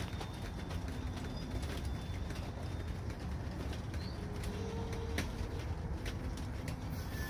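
Slow-moving freight train rolling past: a steady low rumble with scattered clicks and knocks from the cars' wheels, and a few faint, brief squeals.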